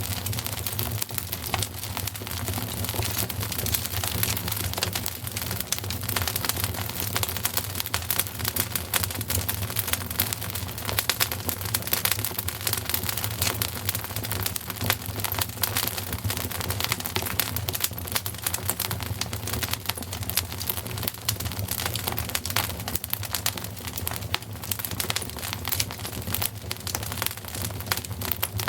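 Wood fire in a fireplace crackling steadily: a dense run of small pops and snaps over a low steady rumble.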